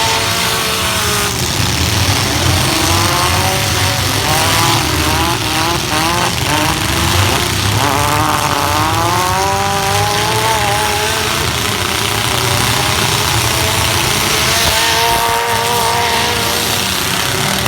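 Compact pickup truck engines revving up and down over and over in a demolition derby, several rising and falling runs over a constant din.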